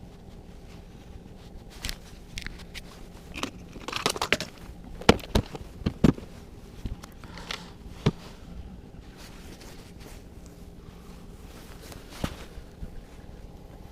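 Scattered sharp knocks and clicks of things being handled, with short bursts of rustling and scraping; the loudest knocks cluster in the middle.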